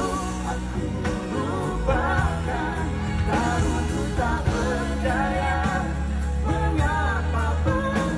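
A voice singing a pop song over a band accompaniment with a steady bass line.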